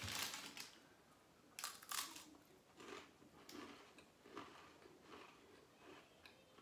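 Person biting into a cracker and chewing it with the mouth close to the microphone. There is a sharp crunch at the start, two more crunches about a second and a half in, then softer, irregular chewing.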